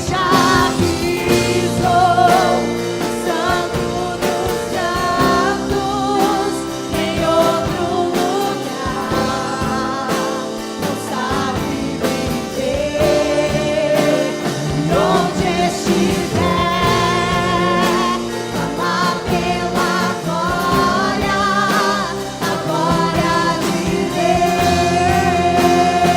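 Live Christian worship music: a singer holding long notes with vibrato over sustained instrumental chords.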